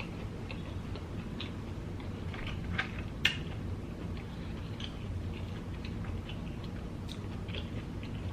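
Close-up chewing of a very large mouthful of food, with scattered short mouth clicks; the sharpest click comes a little past three seconds in.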